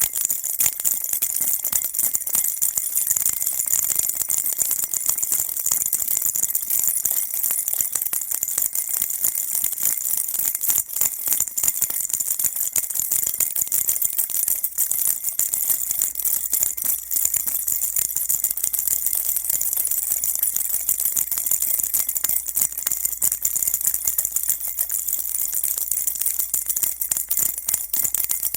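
A baby's rattle shaken continuously and fast, a dense, steady stream of bright, high jingling clicks with no pauses.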